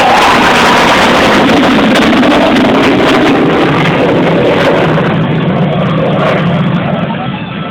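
F-15E Strike Eagle jet passing close by at speed, its loud jet noise dropping steadily in pitch as it goes past and fading near the end.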